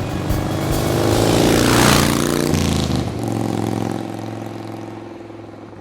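A motorcycle engine revving up, loudest about two seconds in as its pitch falls away, then a low steady hum that fades out.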